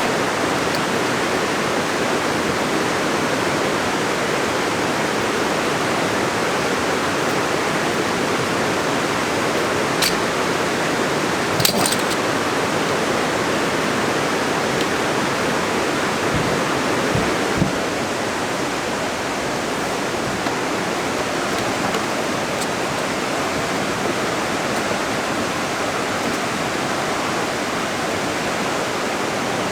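Steady rain falling, an even hiss with no let-up, with a few light clicks or knocks here and there.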